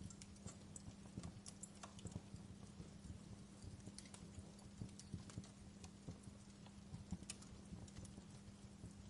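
Log fire in a fireplace crackling, with irregular sharp snaps and pops of varying loudness over a soft low rumble of the burning, and a faint steady hum underneath.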